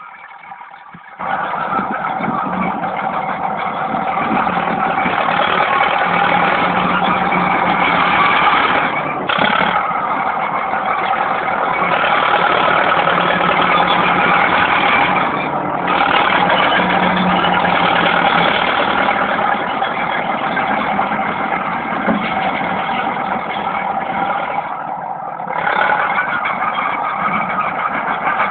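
Fiat FL8 crawler's diesel engine working steadily under load. It gets louder about a second in and eases off briefly three times.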